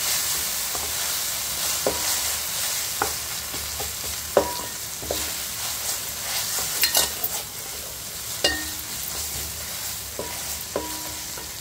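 Ginger-garlic paste and sliced onions sizzling in ghee in an aluminium pot while a spatula stirs and scrapes them, with the spatula knocking against the pot now and then and each knock ringing briefly.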